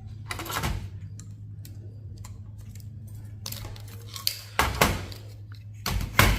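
Metal clinking and clanking as a server's stainless steel heatsink and hand tools are worked loose and set down: a few sharp clanks about half a second in, then a cluster near the end. A steady low hum sits underneath.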